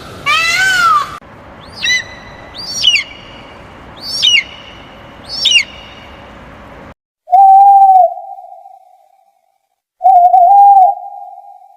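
Bird calls: a rising-and-falling call at the start, then four short, falling whistled notes over an outdoor hiss. After an abrupt cut, two louder, steady, hoot-like tones follow, about three seconds apart, each fading away.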